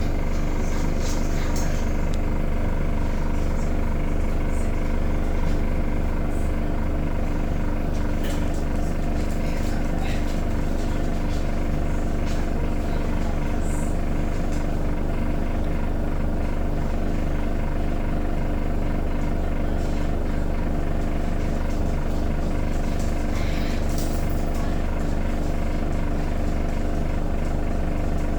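Miele washing machine on its spin cycle: a steady, loud hum at constant speed, with a few faint clicks over it.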